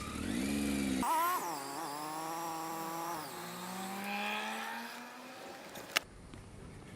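A motor vehicle engine running and accelerating, its pitch climbing slowly and then fading away. A single sharp click comes near the end.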